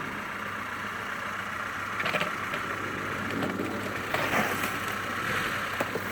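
Off-road vehicle engine running steadily at low revs, with a couple of louder rushes of noise about two and four seconds in.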